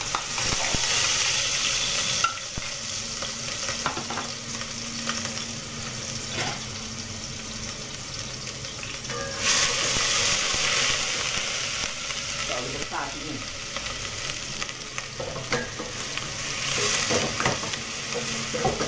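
Pounded spice paste of black pepper, garlic, onion and ginger sizzling as it fries in hot oil in a stainless steel pot. The sizzle flares louder at the start, about halfway through and near the end. Occasional short knocks come from the pot.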